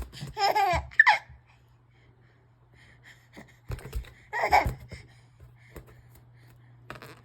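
An 8-month-old baby laughing in short bursts, once just after the start and again about halfway through.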